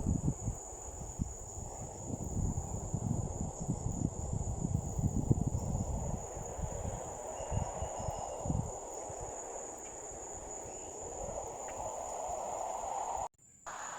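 Crickets trilling steadily at a high pitch over a low, uneven, gusty rumble that eases off after about nine seconds. The sound cuts out briefly near the end.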